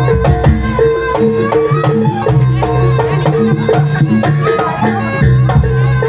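Traditional Javanese folk music playing loudly: hand drums keep a steady beat under held notes and a winding melody line.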